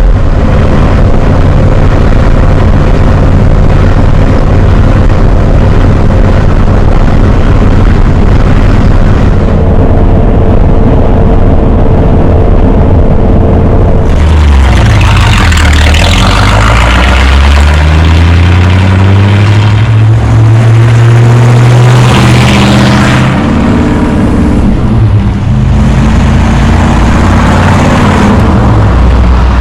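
The 1940 Ford pickup's 350 cubic-inch V8, with a four-barrel carburettor, running steadily at first. About halfway through it picks up speed, climbing in pitch over several seconds, dropping, then climbing again.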